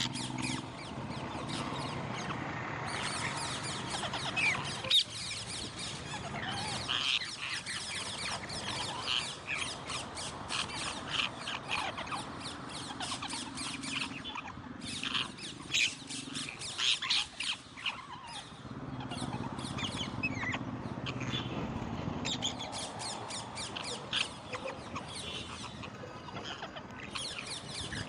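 Parrots squawking and chirping while they eat corn, with dense runs of small crunching clicks from their beaks working the kernels.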